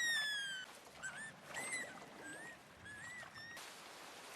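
A small animated creature's high whistling chirps: one long falling whistle, then several short chirps that rise and fall. A steady hiss of rain comes in near the end.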